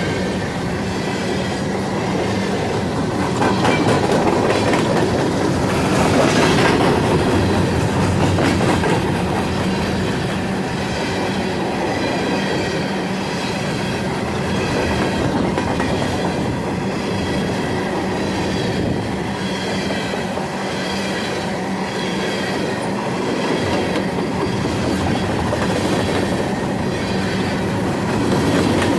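Empty coal cars of a long freight train rolling past: a steady rumble of steel wheels with clickety-clack over the rail joints and a thin wheel squeal at times.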